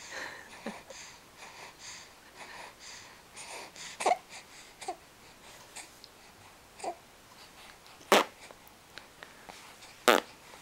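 A baby making small vocal noises: soft breathy sounds, then short squeaks falling in pitch a few seconds apart, and two brief sharp louder squeals near the end.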